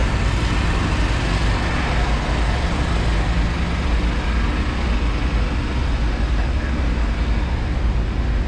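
Steady low rumble with a hiss over it, from a train idling at the station platform.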